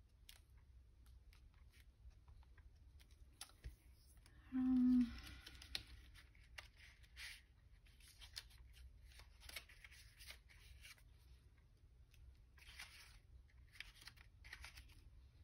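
Scissors snipping through paper and paper being handled, in short irregular bursts. Near a third of the way in there is a brief hummed 'mm' from a person, the loudest moment.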